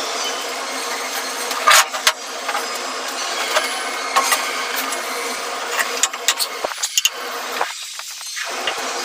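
Elevator hoist machine running with a steady mechanical hum, with sharp metallic clicks and knocks at intervals.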